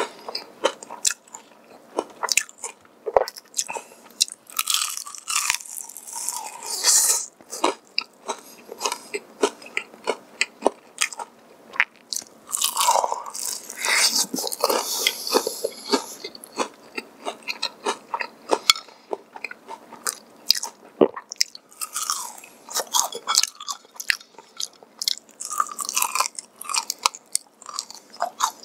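Close-up biting and chewing of crisp, glazed Kyochon Honey Combo fried chicken: sharp crackling crunches with wet chewing between them, loudest a few seconds in and again around the middle.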